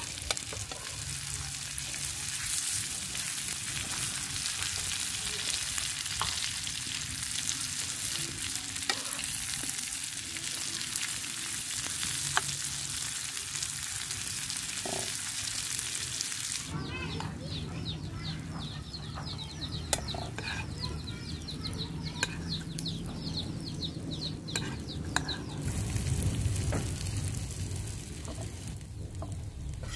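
Onion rings frying in hot oil in a pan: a steady sizzle, with a metal spoon now and then clicking against the pan. About halfway through the sizzle becomes much quieter, while a spoon keeps clinking as the rings are turned.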